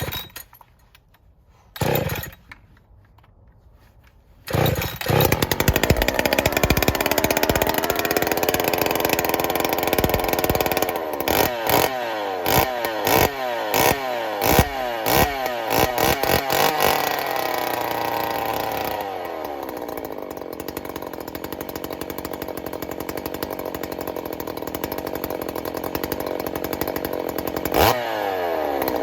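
Freshly rebuilt Jonsered 2186 two-stroke chainsaw on its very first start. There are two short bursts before it fires about four and a half seconds in. It is then revved in a string of quick blips and settles to a steady idle, with one more rev near the end.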